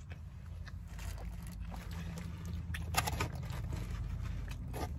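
Quiet chewing and mouth sounds, with a couple of light clicks about three seconds in and near the end, over a steady low rumble in a car cabin.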